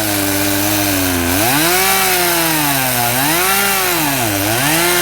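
Small Homelite chainsaw with a Husky 14-inch bar and full-comp chain cutting a log at full throttle. Its engine note sags and climbs back three times as the chain loads up in the wood.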